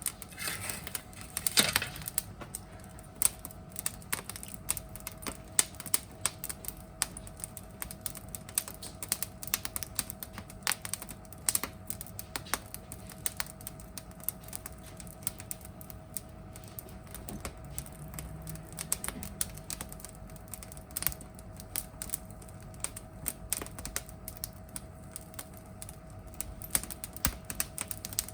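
Wood fire crackling, with irregular sharp pops and snaps over a faint steady hum.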